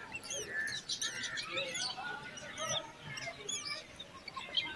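Crested mynas chirping: many short, rising and falling chirps overlapping one another without a break.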